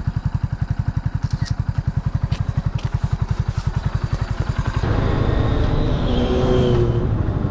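Kawasaki W175's air-cooled single-cylinder engine idling with an even low thump, about a dozen beats a second. About five seconds in, a louder, rougher engine noise covers it.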